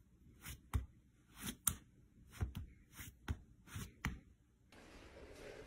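Faint, irregular soft taps and rustles, about a dozen spread over several seconds, as a dog's paw and a person's hand move against each other on bedding.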